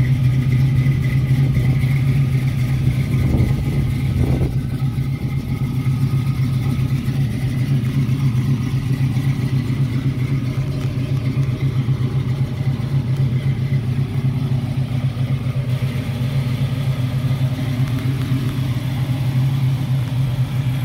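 The engine of a 1967 Ford Mustang fastback idling steadily with an even, low, pulsing note.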